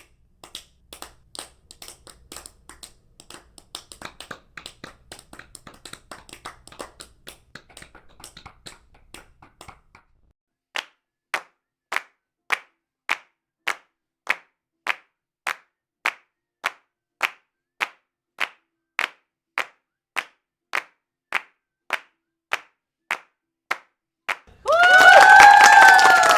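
Hand clapping in three takes. First, scattered quiet claps from a few hands, irregular. Then single hand claps in a steady beat, a little over one a second. Near the end, loud crowd applause breaks in with shouting voices.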